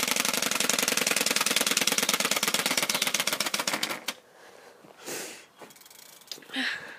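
Homemade Turbospoke-style plastic flap, cable-tied to a bicycle frame, slapping against the spokes of the spinning wheel: a rapid, steady clatter of clicks meant to sound like a Harley-Davidson exhaust. It stops about four seconds in, leaving only faint handling noises.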